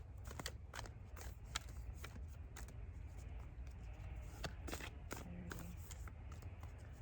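A deck of oracle cards being shuffled and handled by hand: irregular soft clicks and slaps of the cards, over a low steady rumble.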